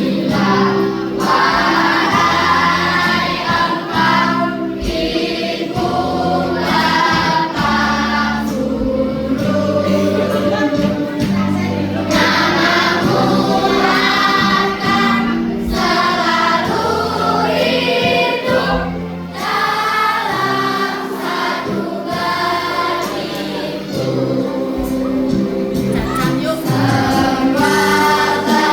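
A children's choir singing a slow hymn-like song in unison phrases, over an accompaniment of held low notes that change from chord to chord.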